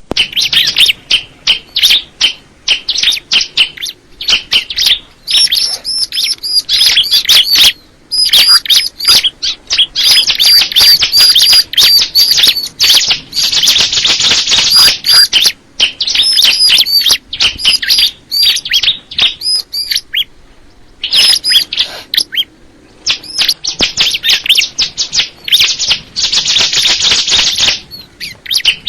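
Ciblek kristal, a prinia, singing: loud, rapid runs of sharp, high chirps in phrases lasting a few seconds, broken by short pauses.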